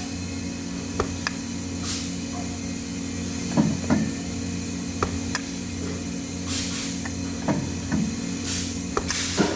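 Metal workshop sounds at a TIG welding station: a steady low machine hum under scattered sharp metal clicks and knocks, with several short bursts of hissing.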